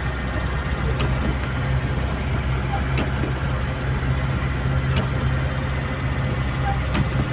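Heavy rain and wind: a steady hiss with a low, steady hum underneath and a few faint ticks.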